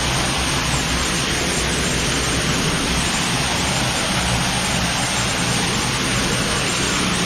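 Water pouring down a cave stream's waterfall, a loud, steady rush with no breaks.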